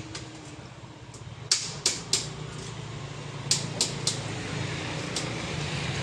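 Sharp metal clicks from a 14 mm socket wrench being worked on the scooter's exhaust bolts, two quick runs of three clicks and then a single one, over a steady low hum of background traffic.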